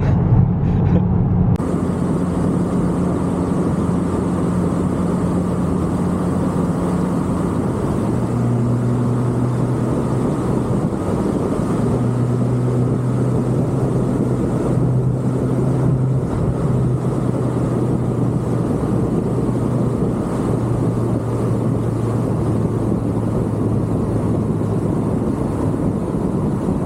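Car engine and road noise heard from inside the cabin while driving, a steady hum that drops to a lower note about eight seconds in, as after an upshift, then holds with small changes.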